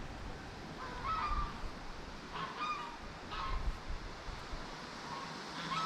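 Domestic geese honking: about four short calls a second or so apart.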